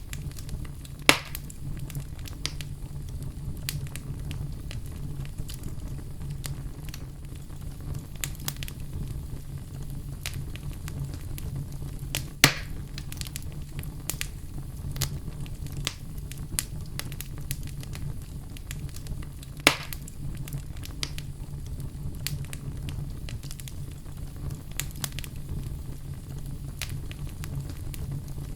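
Wood fire crackling steadily with many small ticks over a low steady rumble, and three louder pops: one about a second in, one near the middle and one about two-thirds through.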